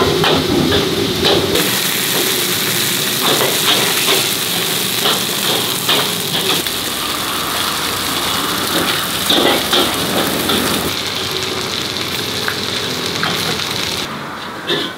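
Food sizzling hard in a hot wok and on a flat-top griddle, with metal utensils clanking and scraping against the pan again and again. Near the end the sizzle drops away and it gets quieter.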